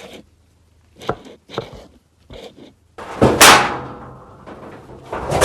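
A few light knocks, then a loud clatter about three seconds in with a ringing tail, from handling a dryer vent.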